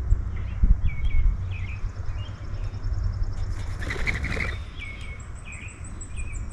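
Small birds at a feeder giving short chirps, repeated about every half second, with a brief flutter of wings about four seconds in.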